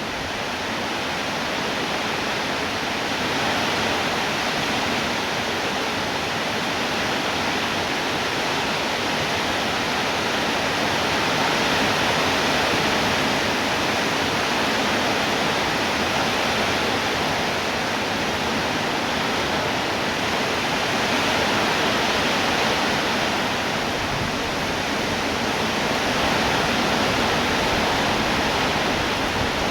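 Rain falling steadily, an even hiss that swells and eases slightly.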